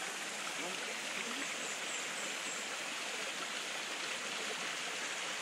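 Jungle stream running steadily over rocks, an even rush of water.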